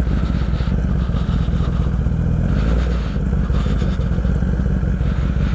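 Kawasaki ZX-10R sport bike's inline-four engine running steadily as it rolls through, with the revs rising briefly about two seconds in.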